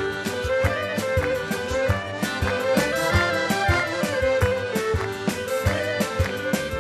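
Instrumental passage of a Shkodran folk song: a band playing a melody over a steady, even beat, with no voice.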